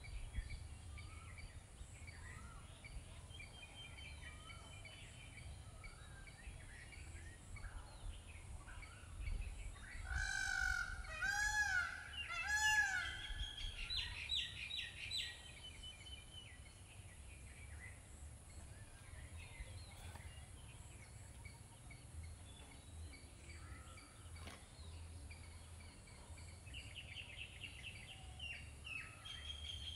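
Outdoor birds chirping and calling on and off over a faint low hum. About ten seconds in there is a louder call of three rising-and-falling notes with a fast high trill, and a quick run of chirps comes near the end.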